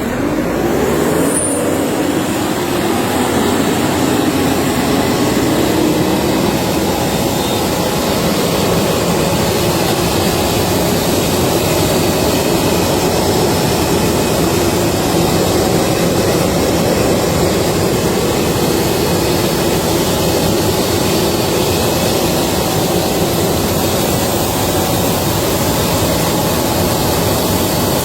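Self-propelled crop-residue vacuum with a 65 hp Kubota engine running under load, engine and suction fan giving a loud, steady noise. The engine note rises slightly in the first couple of seconds, then holds.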